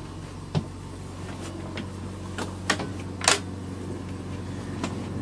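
A handful of irregular light clicks and knocks over a steady low hum, the loudest click a little past the middle.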